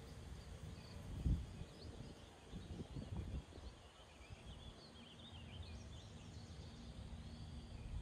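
Small birds chirping and twittering in a meadow, short high notes coming thick from about one and a half to six and a half seconds in, over a low outdoor rumble. A low thump about a second in is the loudest moment.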